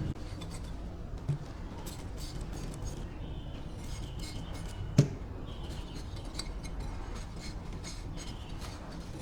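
Light scattered clicks and clinks of small hard parts being handled, with one sharp knock about five seconds in, over a low steady hum.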